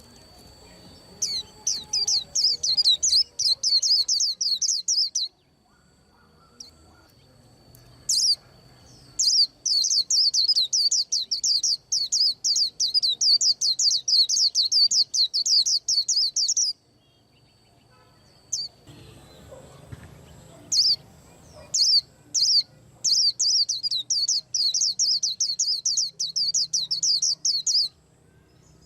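A small songbird singing: long runs of rapid, high chirping notes, about ten a second, in three bouts broken by short pauses and a few single calls.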